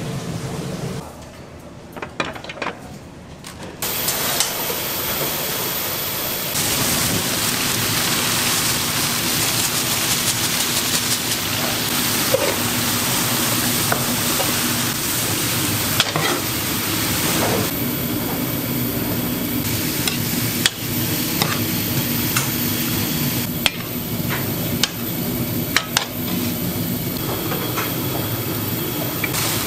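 Food sizzling as it fries in a pan, with a steady hiss that sets in about four seconds in after a quieter stretch of clatter. Utensils stir the food and knock against the pan every few seconds.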